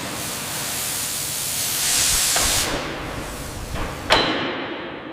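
Loud rushing hiss, like gas or steam venting, that swells and then falls away after about two and a half seconds. A knock comes midway, and a sharp metallic clank with a brief ring follows about four seconds in.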